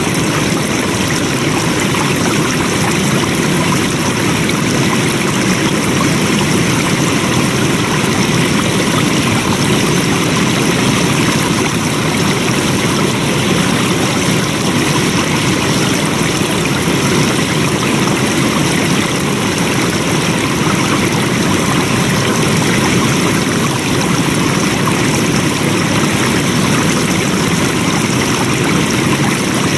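Flowing water running steadily: an even, unbroken rush of a stream.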